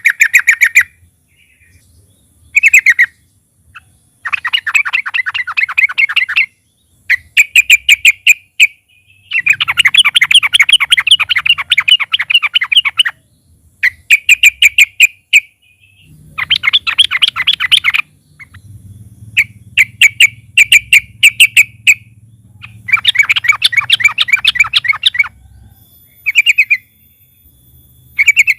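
Yellow-vented bulbul (trucukan) singing loudly in phrases of fast, chattering repeated notes, each phrase one to four seconds long with short pauses between.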